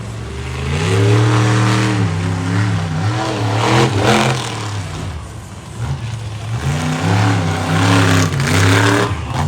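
Monster truck engine revving hard, over and over, its pitch climbing and dropping as the throttle opens and closes, with louder surges of noise about four seconds in and again near the end.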